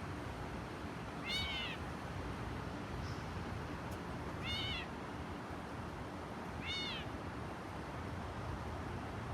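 Northern mockingbird giving three short, arching calls a few seconds apart, part of its run of imitations, over steady low background noise.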